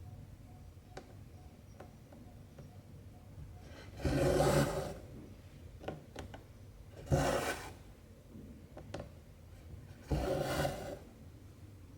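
Cotton embroidery thread pulled through 14-count cross-stitch fabric: three rasping pulls about three seconds apart, each lasting under a second, with a few light ticks from the needle between them.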